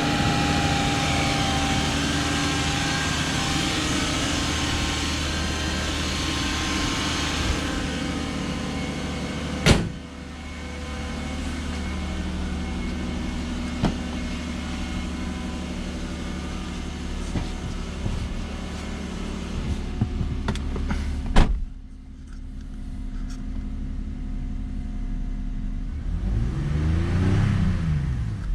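2000 Lexus SC300's 2JZ-GE inline-six running steadily at idle a minute or so after a cold start. Two sharp clicks cut in, one about ten seconds in and one about twenty-one seconds in.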